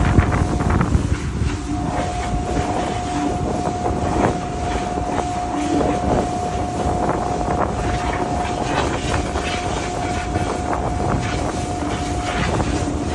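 Compressed air blowing through the fire side of a ship's exhaust gas economizer: a steady loud rush with a steady tone that comes in about a second in and stops near the end, and irregular clicks and knocks.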